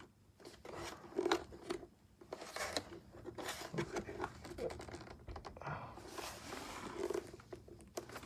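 Plastic parts of a robot vacuum being handled: the dustbin and filter assembly clicking, scraping and rustling as it is taken out.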